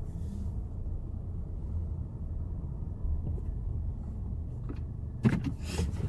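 A car's low, steady rumble of engine and road noise heard from inside the cabin, with one sharp knock about five seconds in.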